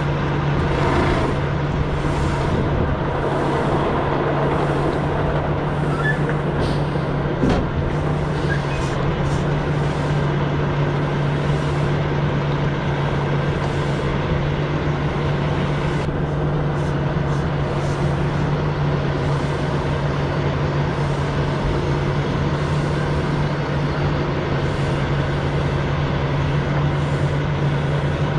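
Semi truck's diesel engine running steadily under way, a constant low drone with road noise. A single short knock about seven and a half seconds in.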